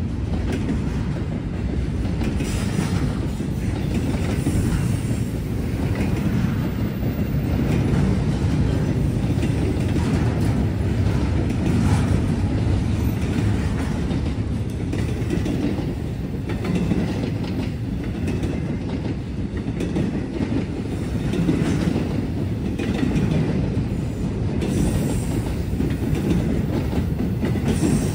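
A Norfolk Southern freight train's cars rolling steadily past at close range: a continuous rumble with wheels clicking on the rails.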